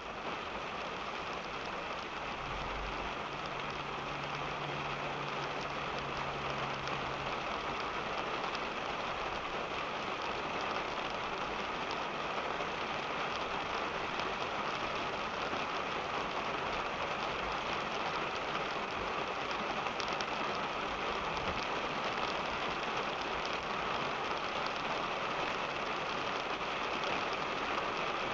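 Rain falling on a car, heard from inside the cabin: a steady, dense patter of drops. A low hum comes in for a few seconds near the start.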